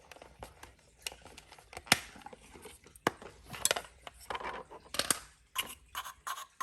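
Irregular clicks, taps and knocks of hard plastic being handled: a Roomba's dust bin being opened and its contents looked over.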